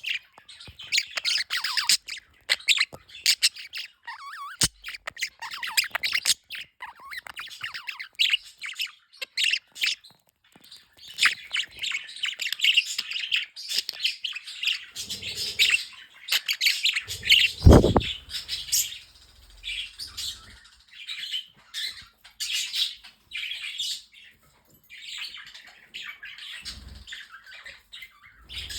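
A pet flock of budgerigars with a few parrotlets and cockatiels chattering continuously in fast, overlapping chirps and warbles. A single loud thump about two-thirds of the way through is the loudest sound, with a couple of fainter knocks elsewhere.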